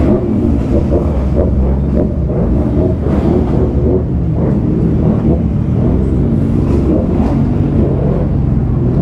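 Motorcycle engine running with a steady low rumble, its pitch wavering up and down slightly.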